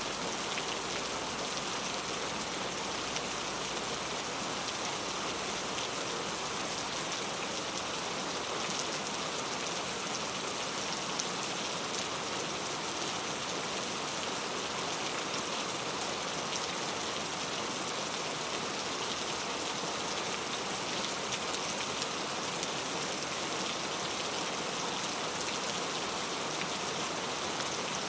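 Steady rain falling on a surface, a dense patter of drops with fine ticks throughout.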